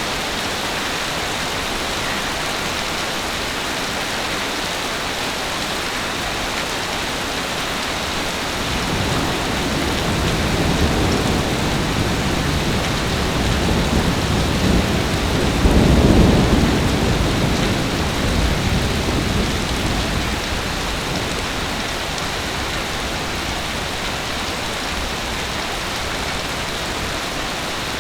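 Heavy rain falling as a steady hiss. Thunder rolls in about a third of the way through, with a deep rumble that builds to a peak just past the middle and then dies away.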